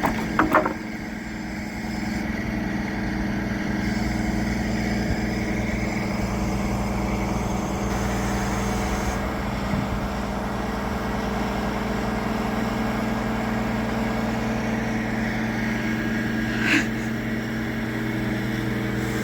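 Large crane's diesel engine running steadily during the lift, an even drone with no change in speed. A brief high squeak sounds once about seventeen seconds in.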